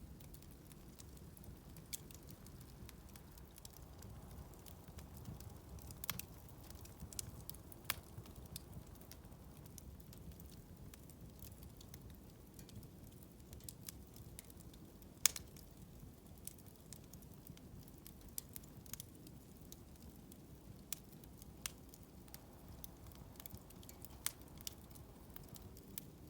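Bonfire burning with a faint, steady low rumble and scattered sharp pops and crackles, the loudest about fifteen seconds in.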